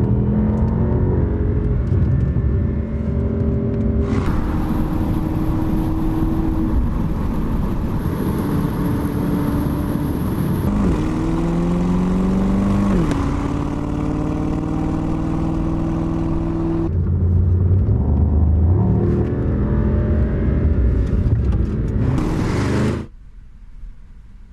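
Mercedes-AMG GT coupe's twin-turbo V8 running under way, its pitch dipping sharply twice as through gear changes, the sound changing abruptly a few times. It drops away near the end.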